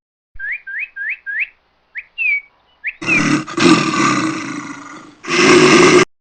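A run of short, quick, rising high-pitched chirps, then a loud, rough animal roar in two parts, the second starting about five seconds in.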